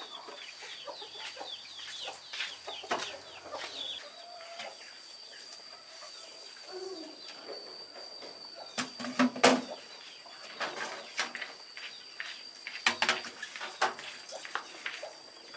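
Farmyard chickens clucking, with scattered sharp clicks and knocks; the loudest knock comes about nine seconds in. A thin, steady high-pitched tone sits underneath.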